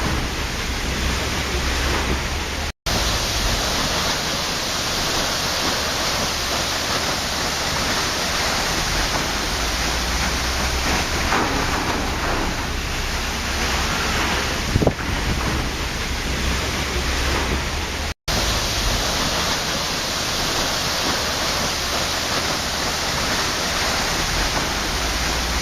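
Waterfall: a steady, dense rush of falling water with no other sounds. The sound cuts out for an instant twice, about three seconds in and again near the end.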